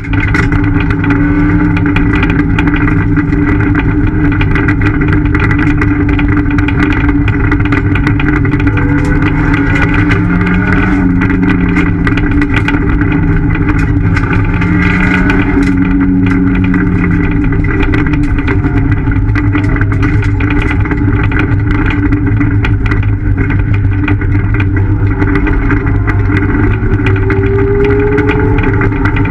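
Ford Fiesta ST rally car's four-cylinder engine running hard at high revs, heard from inside the cabin, its pitch rising and falling as it is driven along the stage. Frequent sharp clicks of gravel strike the car throughout.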